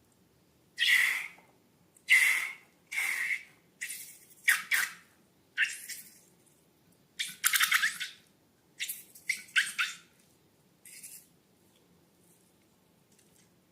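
Slime being squeezed and worked with balloons, making about a dozen short, wet squelching and hissing squirts with gaps between them.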